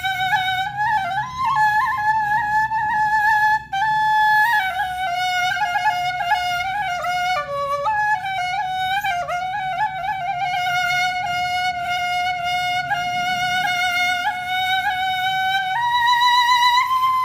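Background music: a solo flute melody with long held notes, a slight wavering vibrato and quick ornamental turns, stepping up in pitch near the end.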